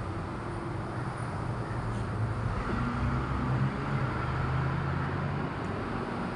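Steady low background hum with a constant noise bed, traffic-like.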